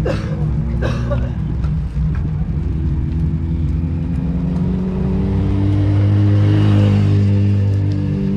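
A motor vehicle's engine approaching and passing, its steady drone growing loudest about six to seven seconds in, over wind rumble on the microphone.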